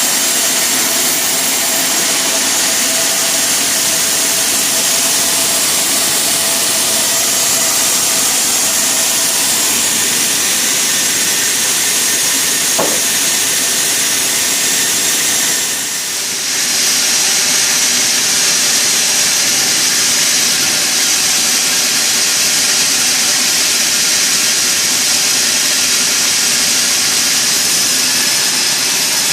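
Sawmill machinery running loudly and steadily, a noisy mechanical din with a brief dip in level about halfway through.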